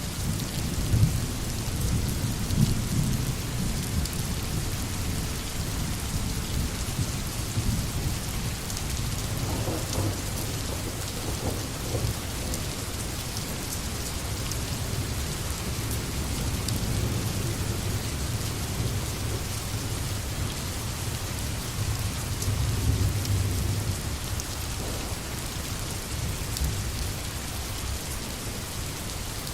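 Steady rain falling in a forest, a continuous hiss of drops, with a low rolling rumble underneath that swells near the start and again about two thirds of the way through.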